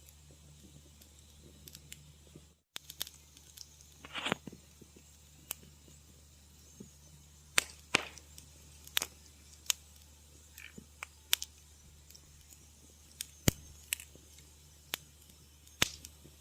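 Wood fire crackling in a fireplace: irregular sharp snaps and pops, some loud, over a faint steady low hum and hiss. The sound drops out completely for a moment about three seconds in.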